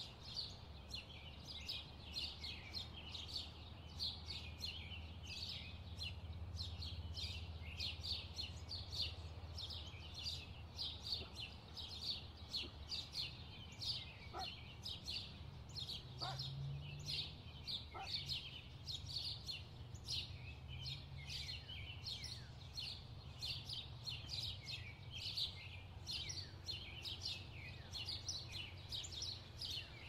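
Small songbirds chirping continuously, several short, high, falling chirps a second, over a steady low background rumble.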